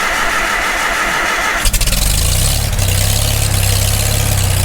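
Farmall Super M tractor's four-cylinder gasoline engine cranking on its starter with a little choke, catching about a second and a half in and settling into a steady even run: its first start after a full rebuild.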